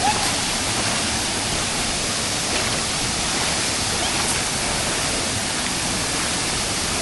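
A large waterfall rushing steadily into its pool close by.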